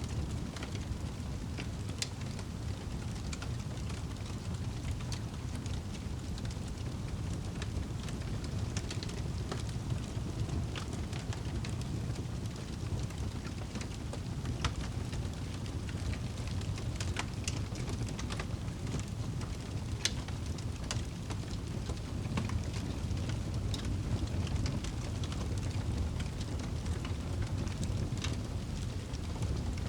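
Wood fire burning in a fireplace: a steady low rumble with irregular sharp crackles and pops throughout, one of the louder pops about twenty seconds in.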